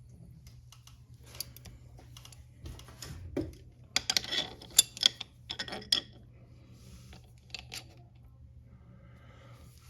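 Small metal clicks and clinks of a chain break and rivet press tool being fitted and worked on a motorcycle drive chain's connecting link. The clicks come thickest and loudest about four to six seconds in.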